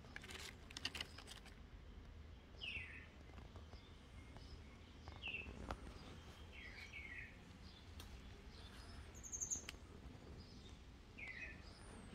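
Faint background bird calls: short downward-sliding chirps every few seconds, with a few brief clicks in the first second or so.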